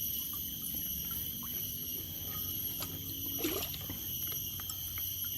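River water trickling and lapping, under a steady high-pitched insect drone, with a few light clicks.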